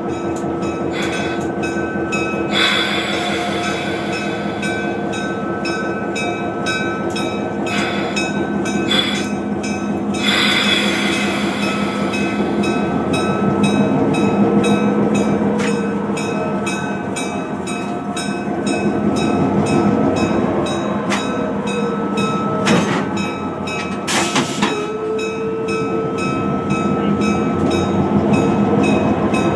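Diesel locomotive running under way, heard from inside the cab: a steady engine drone with the wheels clicking over rail joints, and a few brief louder noisy bursts.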